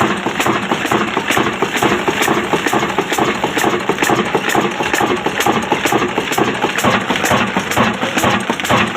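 Old black diesel engine running steadily at idle, with an even beat of about three strokes a second.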